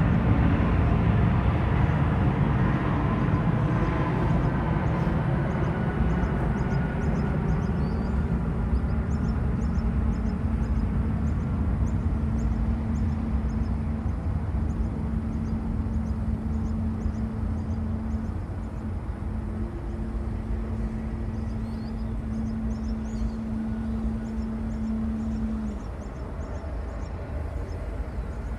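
Jet airliner's engine rumble fading slowly as the aircraft moves away, with a steady hum that stops near the end and faint high chirps over it.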